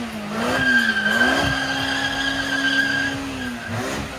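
A car's tires squealing in a sustained burnout, with the engine held at high revs underneath, its pitch wavering up and down before dipping briefly near the end.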